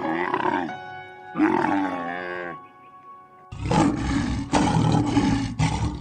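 Two drawn-out camel calls that bend up and down in pitch, then, about halfway through, a lion roaring in several loud pulses, over light background music.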